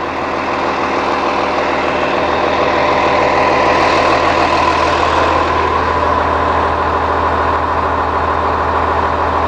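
Idling 2009 Blue Bird All American bus, with its Cummins ISC diesel running: a steady mechanical hum that grows louder over the first few seconds and then holds.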